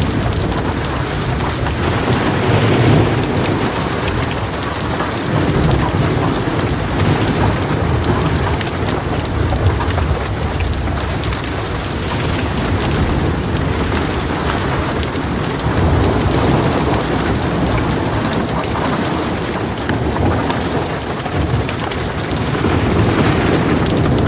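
Heavy rain falling steadily on a metal roof, with thunder rumbling low several times.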